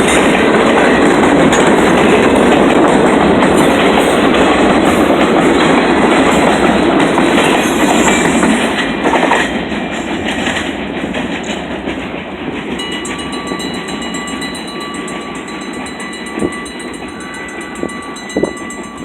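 Freight train cars rolling past at a grade crossing, their wheels clicking over the rail joints, until the noise drops away about ten seconds in as the end of the train passes. After that, a steady repeating ring of the crossing signal bell can be heard.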